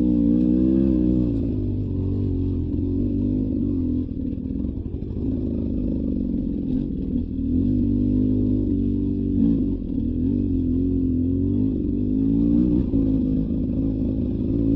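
Beta 300 RR Racing's two-stroke single-cylinder engine running under a varying throttle, its pitch rising and falling. The revs drop off about four seconds in and build again a few seconds later.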